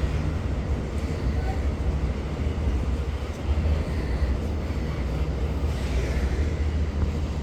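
Loaded bauxite ore freight train passing, a steady low rumble.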